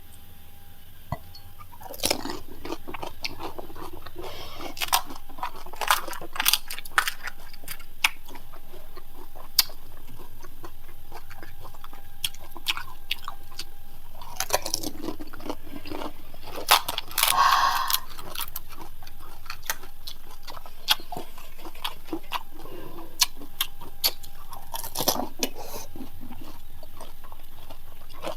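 Crisp, hollow panipuri (golgappa) shells cracking as they are bitten, with wet chewing in between. There are sharp, irregular crackles, in denser flurries several times.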